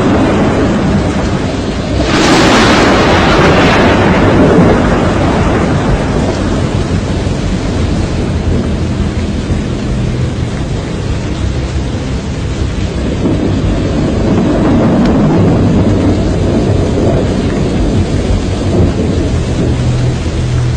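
Loud storm wind from a tornado, a continuous roar heaviest in the low end, with a sudden stronger gust about two seconds in and further swells later.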